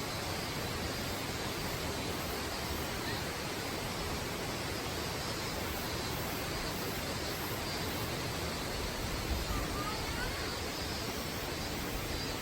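Steady, even rush of a waterfall. Near the end it is joined briefly by a faint short chirp.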